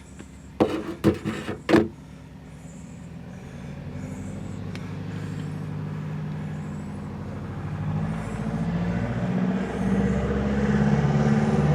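A few sharp knocks near the start. Then a motor's steady hum builds and grows steadily louder, as an engine comes closer.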